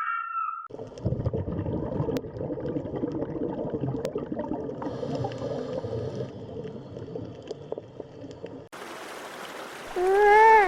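Animal-sound clips: a call breaks off at the start, then comes several seconds of a low, rough, noisy rumble with a few clicks. Near the end, after a cut, there is one loud meow-like cat call that rises and then falls.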